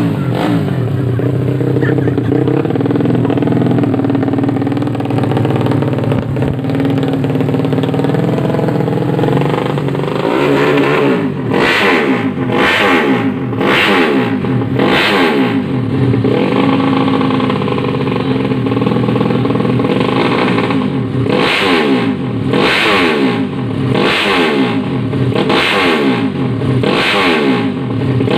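Honda Blade 125's single-cylinder four-stroke engine, freshly tuned up. It runs at a steady speed for about ten seconds, then is revved up and let fall back again and again, in quick blips.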